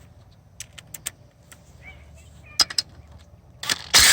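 Scattered metallic clinks and taps of tools and engine parts being handled, then near the end a loud, even rushing burst lasting about half a second.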